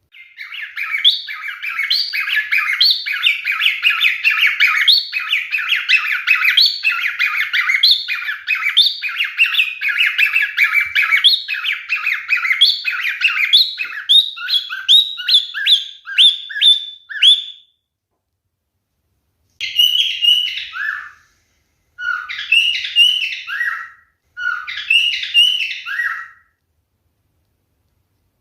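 Male pied cockatiel singing: a long run of quick chirps and whistles lasting about seventeen seconds, then, after a short pause, three shorter bursts of whistled phrases.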